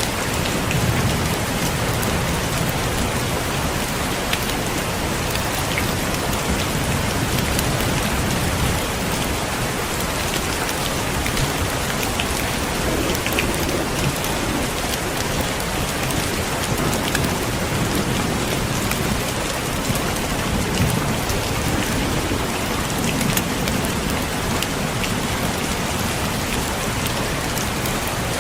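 Heavy rain pouring steadily, with low rumbles of thunder swelling now and then.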